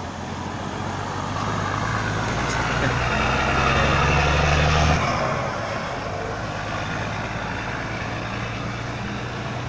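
Diesel dump truck engine running under load, growing louder for about five seconds, then dropping off suddenly and running on more quietly.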